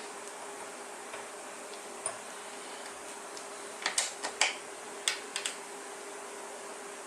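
Small metal parts and tools clinking and clicking during hand work on a hub motor, in two short clusters about four and five seconds in, over a steady faint hum.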